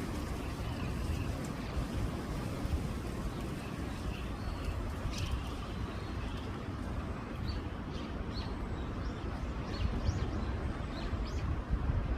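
Brown-eared bulbuls calling: a scatter of short, sharp calls that come more often in the second half, over a steady low rumble.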